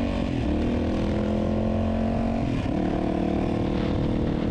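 Off-road motorcycle engine running at steady revs while riding, with the engine note shifting once about two and a half seconds in.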